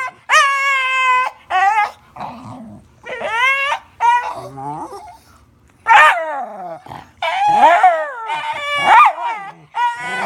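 A dog howling and whining in a string of drawn-out, wavering calls with pitch that slides up and down, broken by short pauses and a brief lull about halfway through.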